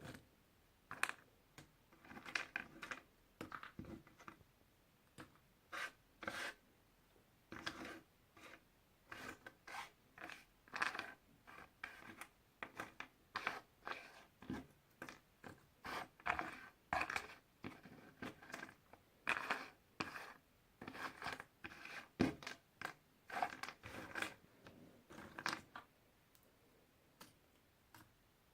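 Jigsaw puzzle pieces being handled: irregular taps, clicks and scratchy scrapes as pieces are picked up, slid and set down. The sounds stop a couple of seconds before the end.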